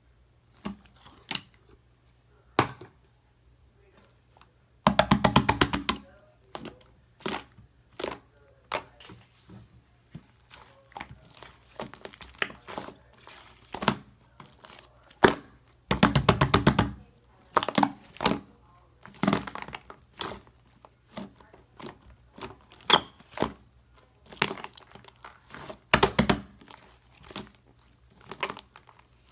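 Slime being pressed, squished and stretched by hand, giving sticky clicks and pops at irregular intervals. Two longer runs of rapid clicks come about five seconds in and again about sixteen seconds in.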